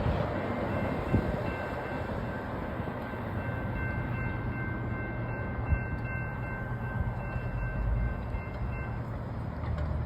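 Train running past with a steady low rumble. A faint, steady high-pitched ringing of three tones is held for most of the time and stops near the end, along with a couple of short knocks.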